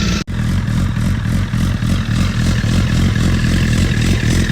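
Honda CBR1000RR inline-four sport bike engine running steadily through its exhaust, with a brief dropout about a quarter second in.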